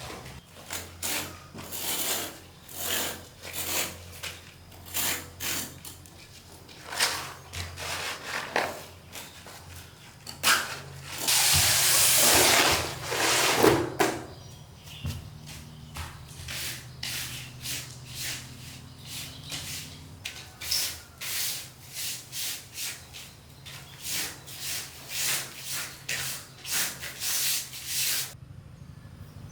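Rhythmic rubbing strokes of hand tool work on bamboo, about one to two a second, with a longer, louder stretch of continuous rubbing partway through. The strokes stop abruptly shortly before the end.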